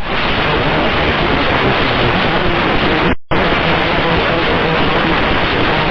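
Loud, steady radio hiss from a VHF airband transmission keyed open with no one speaking. It cuts out suddenly for a moment a little past three seconds in, then comes straight back.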